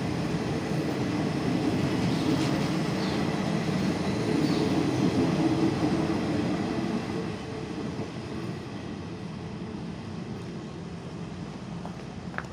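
State Railway of Thailand passenger coaches rolling past on the rails in a steady rumble. The noise drops away about seven seconds in as the last coach goes by and the train moves off.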